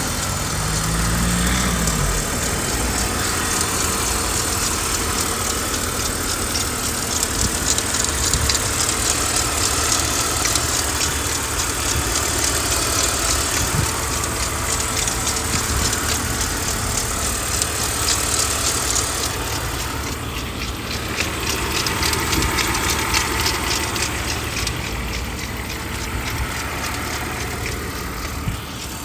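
BMW E39 520i's M54B22 2.2-litre straight-six idling just after a start, the revs settling down in the first two seconds, with a clattering rattle running through the idle: the fault the owner is trying to show.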